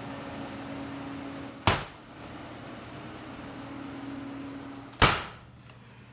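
Two sharp bangs about three seconds apart, each with a short fading tail, over a steady low hum that is quieter after the second bang.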